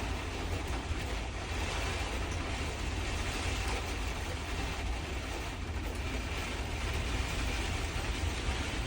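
Steady low rumble with an even hiss over it, unchanging and without distinct knocks or tones.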